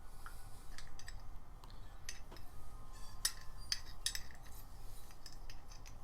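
Light metallic clinks and ticks of small hand tools against metal parts, thickest in the middle, while a grease fitting is threaded into the trimmer attachment's gearbox.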